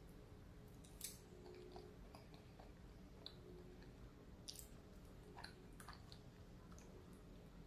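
Faint chewing and wet mouth sounds of a person eating a mouthful of pasta, with a few short sharp clicks.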